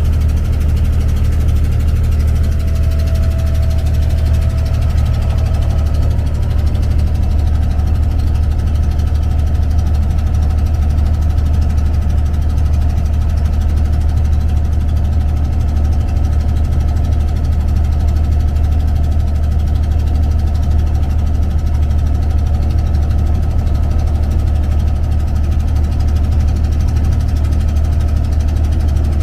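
An abra ferry's diesel engine running steadily, a loud, even low drone with no change in speed.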